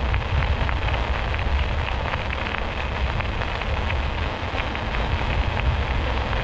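Riding noise from a bicycle: wind rumbling on the microphone and a dense, steady crackle of tyres rolling over the trail surface.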